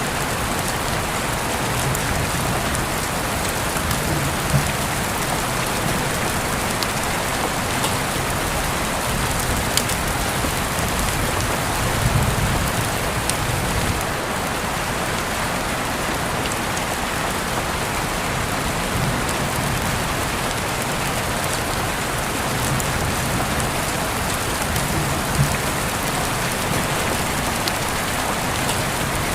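Steady rain falling and pattering on surfaces, with individual drops ticking sharply now and then.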